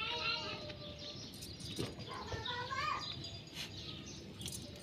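Small birds chirping in short, repeated calls, in two clusters near the start and again around two to three seconds in, with a single sharp click in between.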